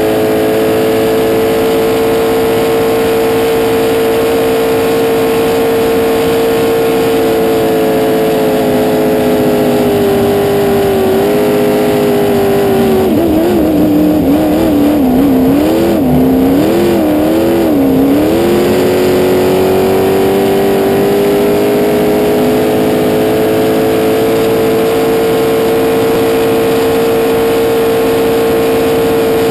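Race boat's fuel-injected V8, running on E85, held at high revs. About ten seconds in the revs sag, then waver quickly up and down for several seconds before climbing back to a steady high note.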